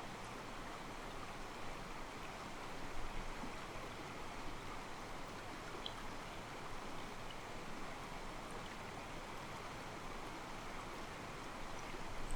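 Calm mountain stream flowing steadily, its water sloshing softly against rocks.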